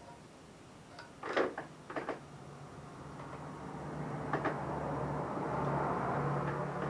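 A few sharp knocks and clatters of mower parts being handled and fitted back on, then a steady low hum with a hiss that grows louder through the second half.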